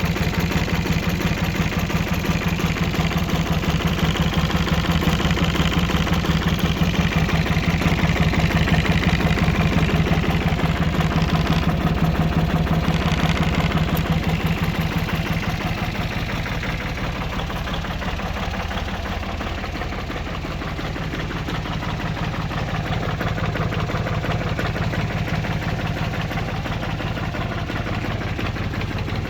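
Mitsubishi MT 301 HD compact tractor's diesel engine running steadily at a fast idle, a little quieter for a few seconds around the middle.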